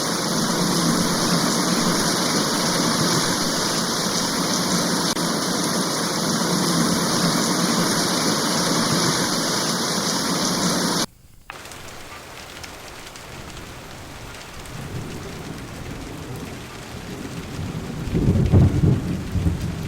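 Heavy, steady rain that cuts off abruptly about eleven seconds in and gives way to lighter rain. Low rumbling thunder builds near the end.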